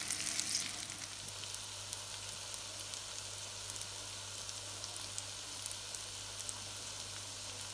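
Potato gnocchi frying at high heat in olive oil in a skillet: a steady sizzle with small scattered crackles.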